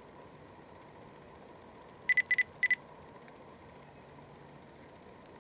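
Three quick electronic double beeps, high-pitched, about two seconds in, over a faint steady background hum.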